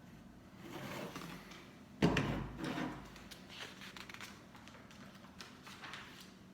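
Plastic Lego pieces being handled on a tabletop, with one sharp knock about two seconds in and scattered small clicks after it.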